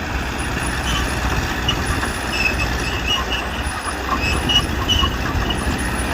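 Heavy earthmoving machinery's diesel engine running steadily, with short high chirps over it.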